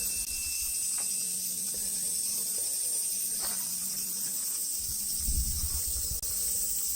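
Steady high-pitched drone of a cicada chorus in summer woodland, with a few faint taps of footsteps and a brief low rumble about five seconds in.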